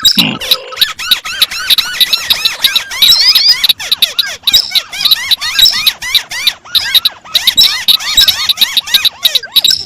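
Several crakes calling at once, among them the white-browed crake: a dense, continuous tangle of rapid, high, squeaky chattering notes from overlapping birds, not in step with one another.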